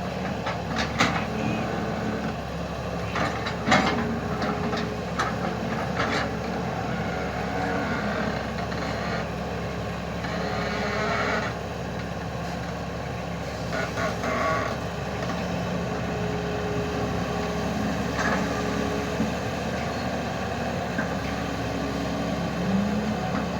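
Heavy diesel machine engine running steadily, with several sharp knocks in the first few seconds.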